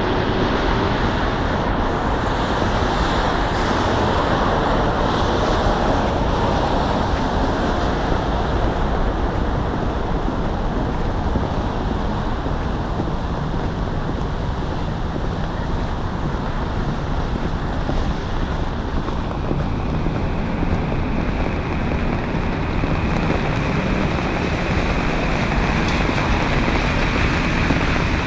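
Steady noise of road traffic along a city street, with no single event standing out.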